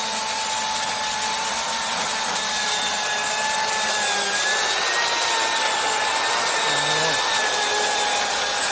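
Chainsaw running steadily at high speed while cutting into an oak trunk, a continuous whine that sags slightly in pitch about halfway through.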